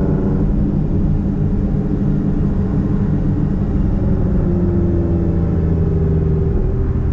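Straight-piped exhaust of a Nissan Platina's four-cylinder engine droning steadily while cruising in city traffic. The drone deepens near the end.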